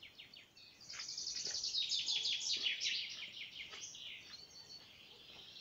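Songbirds singing in woodland: rapid high chirping trills, strongest in the first half and fading away toward the end.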